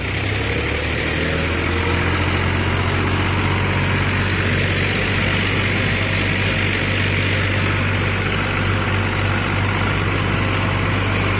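Diesel tractor engine running steadily with a deep, even hum, cutting off abruptly near the end.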